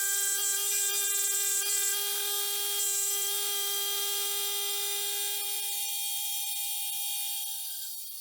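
A small power tool's motor running with a steady high-pitched whine, starting abruptly and holding a constant pitch.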